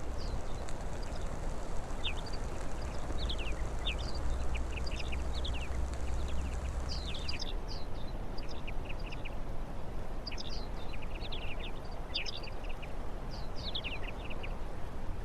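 Small birds calling: many short, high chirps come irregularly throughout, over a steady background rush of noise.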